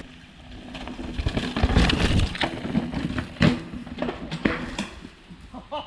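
Mountain bike riding fast over a rough, rooty forest trail: tyres and frame clatter and knock over roots and ruts, with a heavy thump about two seconds in and a sharp knock about halfway through.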